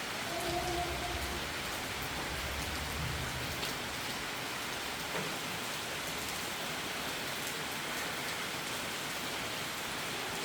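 Heavy rain falling steadily during a storm, with a low rumble under it for the first few seconds.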